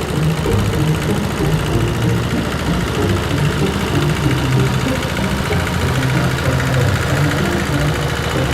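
Kubota L13G tractor engine running steadily at a low, even pace.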